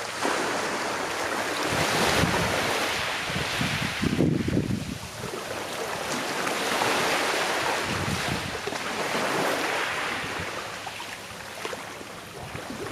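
Small sea waves washing onto a shore and drawing back, in a steady rolling rhythm of swells every few seconds.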